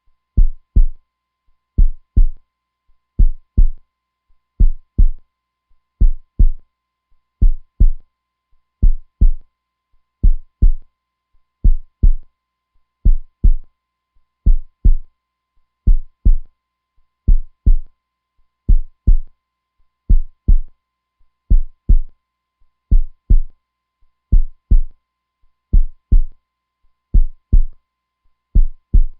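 Heartbeat sound, strong and constant: a low double thump, lub-dub, repeating evenly about every second and a half.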